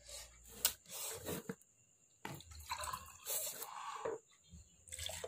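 A person's wet mouth sounds and breaths in several short bursts, with a longer one in the middle, as she copes with the burn of very spicy noodles.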